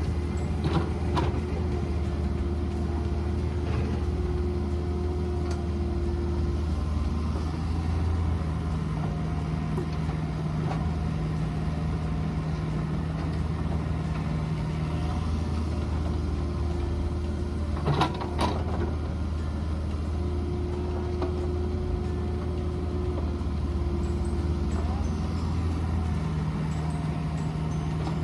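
Mini excavator's diesel engine running steadily while it works, its hum shifting in pitch every few seconds as the load changes, with one sharp metallic clank about two-thirds of the way through.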